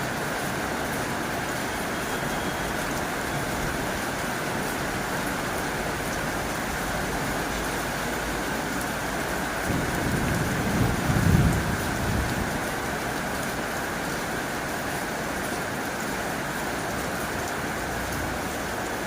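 Heavy rain drumming steadily on a tin roof. A low rumble swells and fades over about three seconds near the middle.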